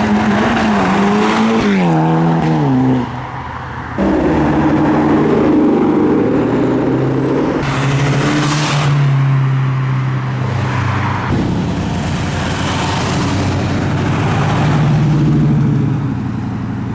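Cars driving past one after another. The first car's engine note drops about two seconds in as it goes by, there is a short lull, then a second car's engine comes in loud at a fairly steady pitch, and a third takes over about halfway through.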